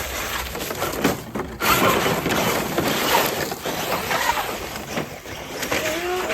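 Electric RC monster truck driving hard over rough ground: its motor whines up and down over a steady rough noise of tyres and body on the terrain.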